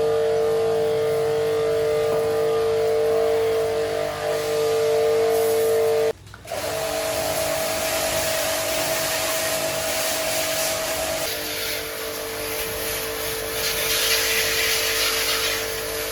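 A small electric motor running with a steady whine. It breaks off abruptly about six seconds in and comes back at a higher pitch, then drops back to the lower pitch with more hiss about eleven seconds in.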